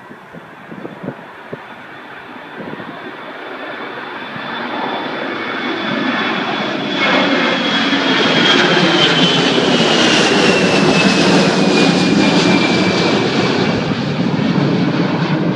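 Aircraft engines growing louder as a plane approaches and passes close by, with a high whine that slowly falls in pitch as it goes past.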